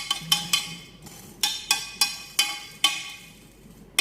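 Metal spoon tapping against a metal pot while rice is spooned in, about eight sharp ringing clinks in two quick runs.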